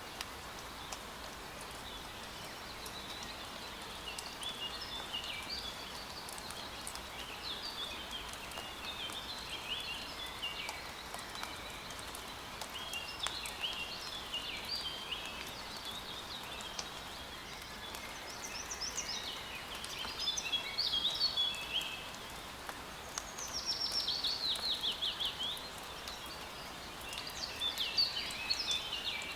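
Light rain hissing and pattering steadily in a forest while several songbirds chirp and call over it. Louder flurries of song come about two-thirds of the way through and near the end, with a quick run of falling notes in between.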